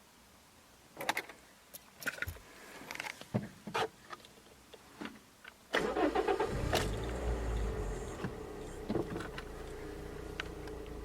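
A few clicks and knocks, then a Toyota car's engine cranks and catches about six seconds in and settles into a steady idle.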